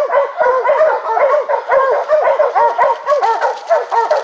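Pack of bear hounds barking without a break, several dogs' barks overlapping at a rapid pace.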